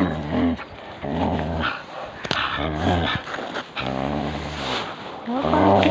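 A dog growling in a series of about five low growls, each lasting under a second or so, with short breaks between them.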